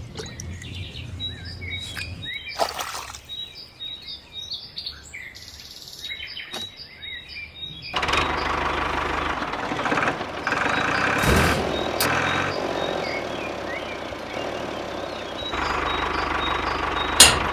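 Birds chirping, then about halfway through a small diesel engine comes in abruptly and runs noisily. A single sharp click sounds near the end.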